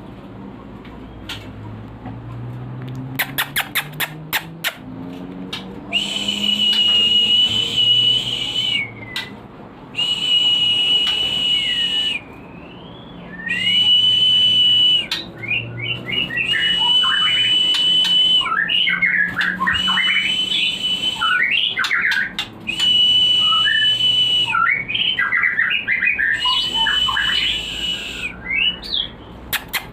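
White-rumped shama (murai batu) singing: long level whistles held two to three seconds each, repeated several times and broken up by quick varied chirps, used as a lure song to bring breeding shamas into mating readiness. A quick series of clicks comes about three seconds in, before the song starts.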